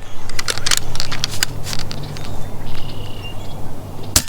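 A suppressed Niksan PCP air rifle fires a single shot near the end, one sharp crack. Before it come scattered light clicks and a brief high chirp.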